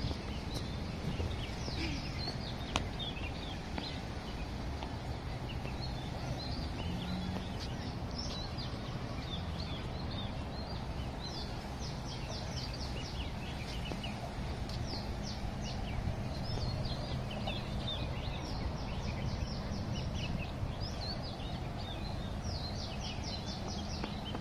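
Birds chirping, many short quick falling notes that come in clusters and are busiest near the end, over a steady low hum.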